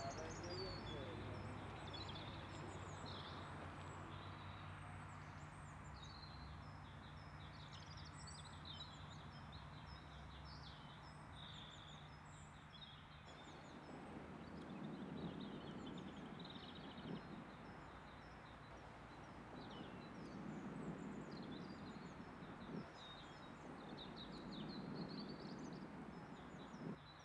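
Several small birds chirping and singing over a faint, steady outdoor background noise.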